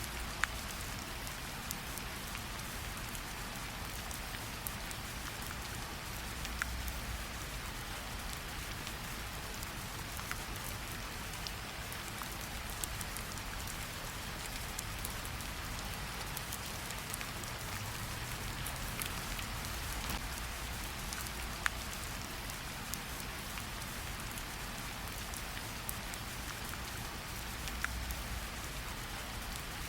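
Steady rain falling on leaves and a pool of water, with sharp single drop hits here and there and a low rumble that swells a few times.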